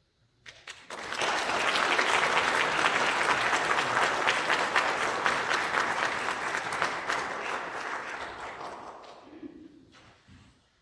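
Audience applauding: scattered claps about half a second in, swelling to full applause within a second, then dying away over the last few seconds.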